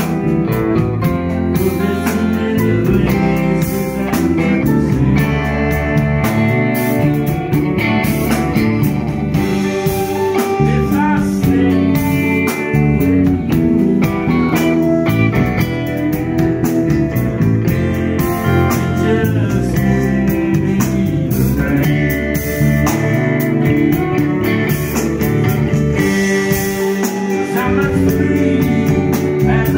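Live band playing blues-rock, led by guitar, loud and continuous.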